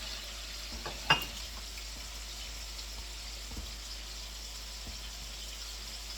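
Steady soft sizzle of chicken frying in hot oil, with one sharp clink about a second in, as of a fork striking a bowl.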